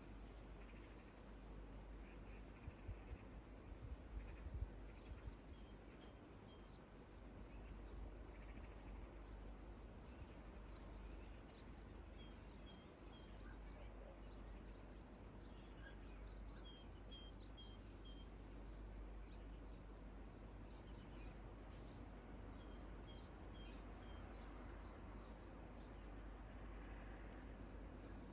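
Faint, steady high-pitched trill of crickets, with short faint bird chirps now and then over a low rumble. There are a few soft low bumps about four seconds in.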